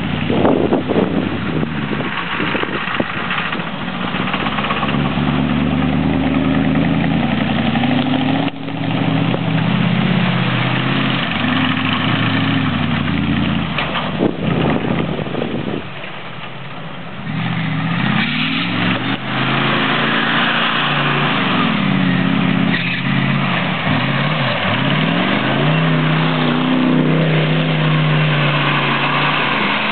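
Truck engine revving up and down repeatedly under hard driving in dirt, over a steady rushing noise. The engine briefly drops back about sixteen seconds in, then revs in quick rising and falling surges.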